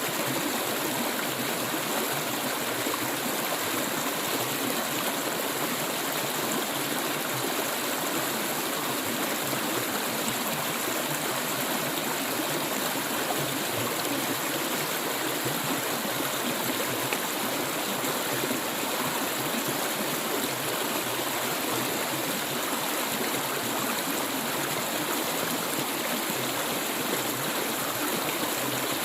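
Clear stream water flowing steadily, a continuous rushing and trickling.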